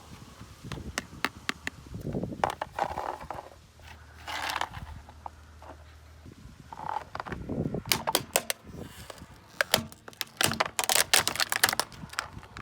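Toy masks cracking and crunching as a car's tyre rolls over them: a run of sharp snaps and crackles that grows dense near the end.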